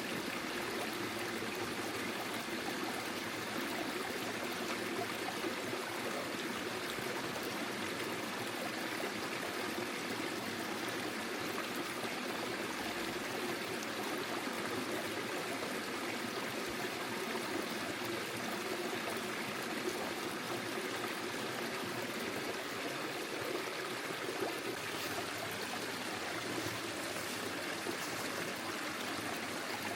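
A small forest stream flowing steadily over stones, a constant rushing trickle of water.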